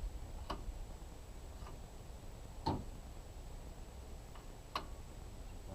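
A few sharp, light clicks, irregularly spaced a second or two apart, over a faint low rumble.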